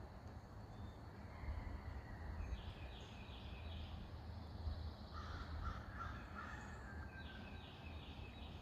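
Wild birds calling on a morning: a songbird repeats a short phrase of three or four quick high notes twice, and a crow caws a few times about five seconds in, over a steady low outdoor rumble.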